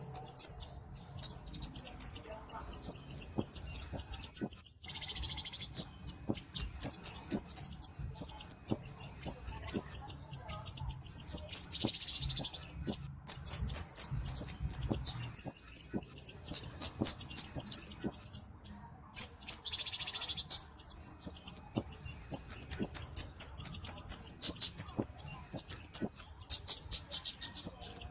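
Flowerpecker (cabe-cabean) calling: rapid runs of thin, high, sharp chirps, several a second, broken by short pauses. A brief hissing burst comes three times, near the start, the middle and about two-thirds through.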